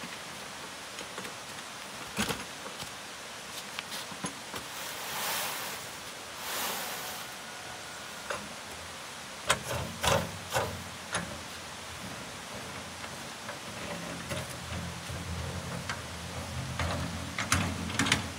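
Steady rain hiss with scattered knocks and clatter. Two longer scraping swishes come about five and seven seconds in, a burst of louder knocks follows about ten seconds in, and a low rumble builds over the last few seconds.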